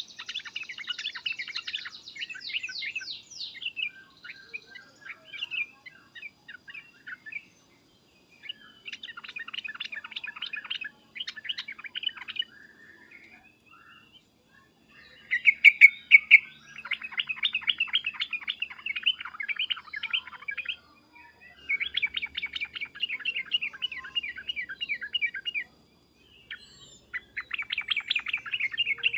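Yellow-vented bulbul (trucukan) calling and singing in loud phrases of rapid, chattering notes, each one to four seconds long, repeated with short pauses: the excited 'cukcuk' calls and bubbling 'uplik-uplik' song.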